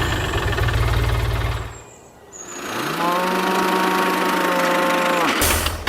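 Small engine running with a rapid low knocking, dying away about two seconds in. Then a steady pitched hum rises, holds for about two and a half seconds and drops away, followed by a short burst of the low engine rumble near the end.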